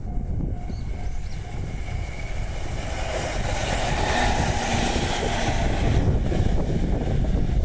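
A train passing close by with a broad rushing noise over a low rumble. It swells to a peak around the middle and then eases off.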